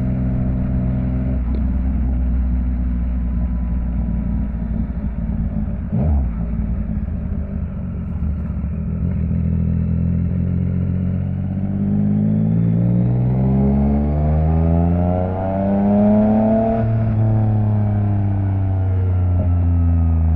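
Yamaha MT-09's three-cylinder engine running through an Akrapovic exhaust while riding, with a low steady note for the first half and a single thump about six seconds in. From a little past halfway the revs climb for several seconds and then fall back as the throttle eases.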